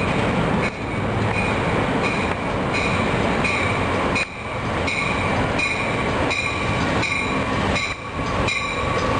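An Amtrak Capitol Corridor push-pull train arrives cab car first and rolls in beneath, a steady rumble of wheels and motion. Over it a high ringing tone repeats about every half second.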